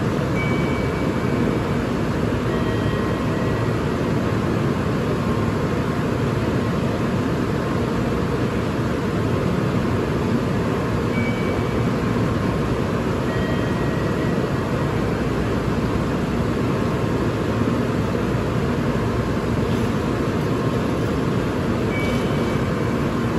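Steady, even rushing noise beside a Shinkansen train standing at the platform, unchanging throughout, with faint brief high-pitched tones now and then.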